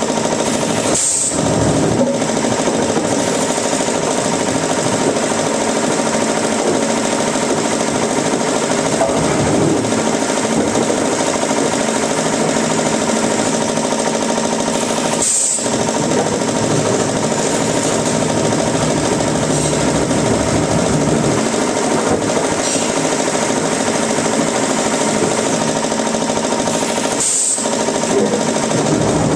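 Woodworking machinery running steadily: a loud, dense mechanical clatter over a constant hum, with three brief breaks, about a second in, midway and near the end.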